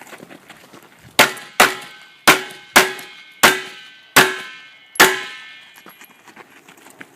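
Seven pistol shots fired in quick, uneven succession, each followed by a metallic ringing tail that fades over about half a second. The shots start about a second in and end about five seconds in.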